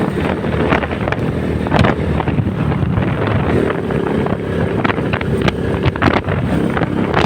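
Honda CBR150R's single-cylinder engine running steadily under way, with wind buffeting the microphone in irregular gusts.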